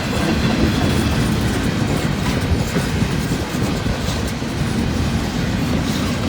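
Long CSX intermodal freight train's cars rolling past at a steady pace: a continuous rumble of steel wheels on the rails with a clickety-clack from the rail joints.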